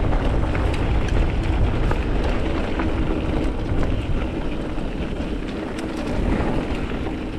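Wind noise on the microphone over a mountain bike rolling along a rocky dirt trail, with scattered small clicks and knocks from the bike and stones.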